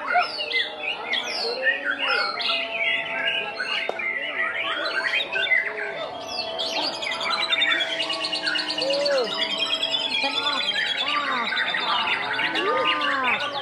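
White-rumped shama (murai batu) singing a varied run of whistled phrases and sweeping notes, with a fast trill about halfway through, among other songbirds calling at the same time.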